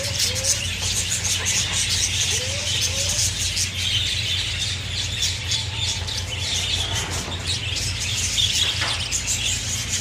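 Many small birds chirping and twittering together, a busy run of quick high calls that never stops, over a steady low hum. A few short rising notes stand out in the first three seconds.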